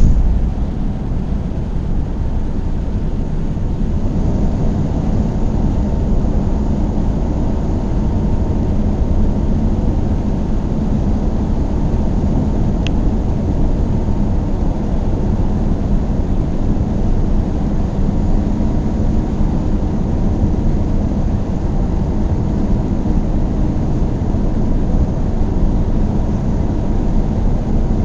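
Car driving at a steady speed: a steady low rumble of engine and road noise with no change in pace. One brief faint click comes about 13 seconds in.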